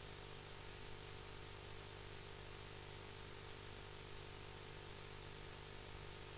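Faint, steady hiss with a low hum underneath and no distinct events: background noise of the recording.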